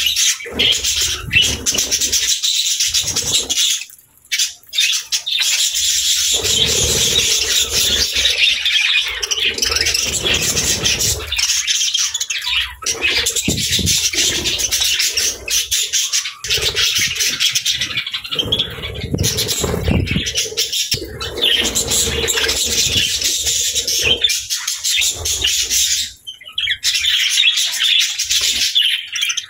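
Birds chirping and squawking continuously, many calls overlapping into a busy chatter, with brief lulls about four seconds in and near the end.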